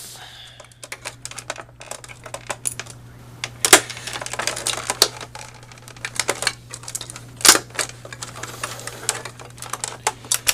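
Plastic clicking, creaking and snapping as the backlit LCD of a Sony Dream Machine clock radio is pried and broken off its tightly fastened mounting, with two loud cracks, one about a third of the way in and one about two thirds in.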